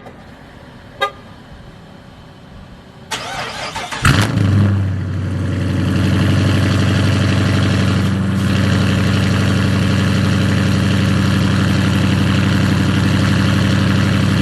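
Dodge Charger R/T's 5.7-litre HEMI V8 with a full 3-inch straight-pipe exhaust, cold-starting: a short crank about three seconds in, catching with a flare about four seconds in, then settling into a loud, steady high idle. Two short clicks come before the start.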